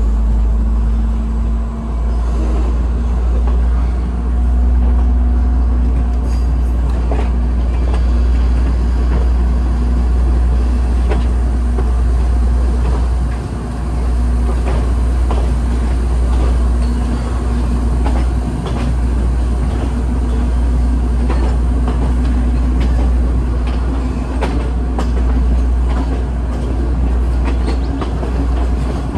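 Moving passenger train heard from inside the carriage: a steady low rumble and hum from the running train, with the wheels and carriage clacking irregularly over the track.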